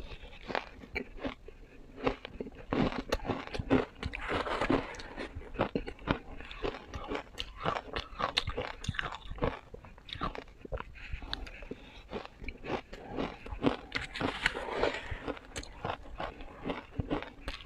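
Ice being bitten and crunched close to the microphone: a dense, irregular run of sharp cracks and crunches.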